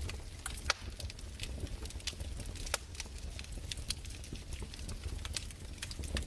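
Wood fire crackling in a fireplace: irregular pops and snaps, several a second, with a sharper snap under a second in, over a low steady rumble.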